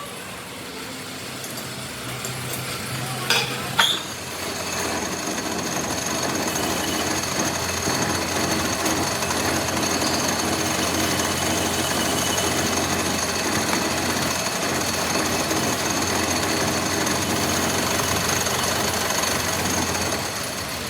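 A metalworking machine running steadily with a dense rattle, after two sharp knocks about three and four seconds in.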